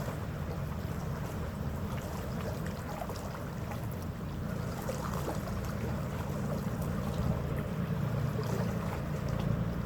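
Passenger ferry's engines running with a steady low rumble, with water rushing past the hull.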